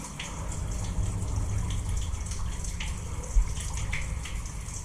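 Water trickling and dripping in a concrete drain tunnel, over a steady low rumble, with scattered small ticks and one thump about three and a half seconds in.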